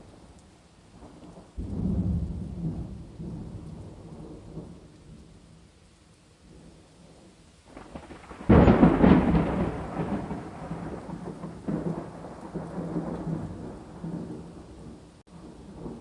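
Thunder over steady rain: a low rumble breaks in suddenly about a second and a half in and fades away, then a louder clap about halfway through rolls on in repeated rumbles, over a faint hiss of rainfall.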